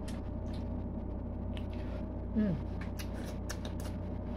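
Someone chewing food, with faint mouth clicks and smacks, and a short falling "mmm" a little past halfway, over a steady low hum.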